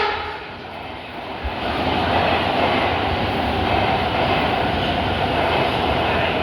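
MARTA rapid-transit train running through the station: a steady noise of wheels and traction motors that builds about two seconds in and then holds.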